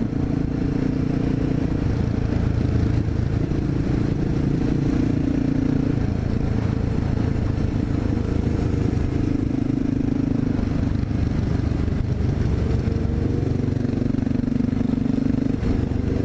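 Honda XR650L's single-cylinder four-stroke engine running while riding, its note swelling and easing every few seconds as the throttle is worked through curves.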